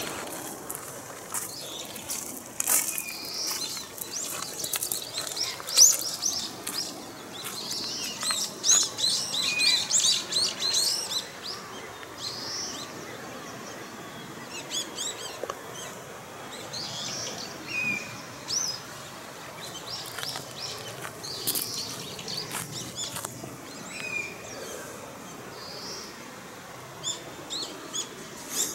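Wild birds chirping and singing: clusters of quick high chirps, with a short lower whistled note now and then. There is one sharp click about six seconds in.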